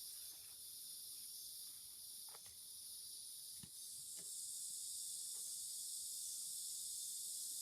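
Steady high-pitched insect chorus that gets louder about four seconds in, with a few faint knocks.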